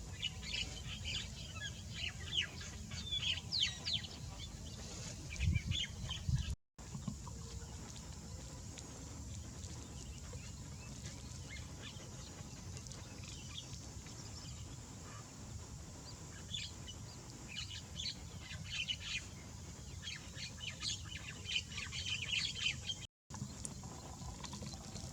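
Small birds chirping in rapid clusters of short, high calls, in two busy spells with a quieter stretch between them, over a steady low rumble. The sound cuts out abruptly twice.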